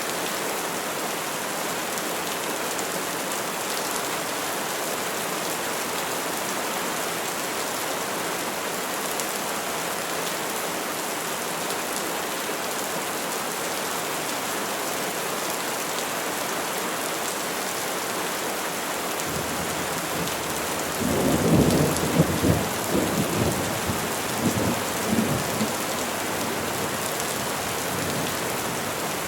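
Steady rain falling on trees. About two-thirds of the way in, a low roll of thunder builds, peaks several times, then fades.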